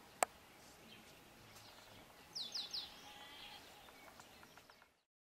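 Quiet outdoor ambience with birds calling: a sharp single click about a quarter second in, and a quick run of three falling chirps about two and a half seconds in. The sound fades out to silence just before the end.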